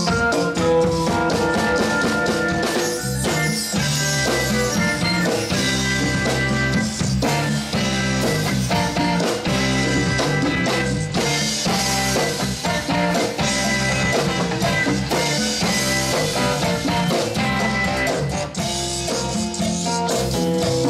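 Instrumental band music with a steady beat on a drum kit, bass and guitar.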